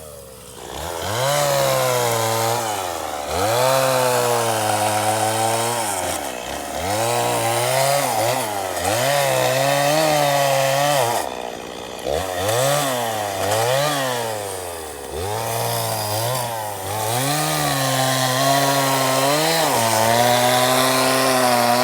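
Chainsaw engine running under throttle, revving up and dropping back again and again as it cuts through wood.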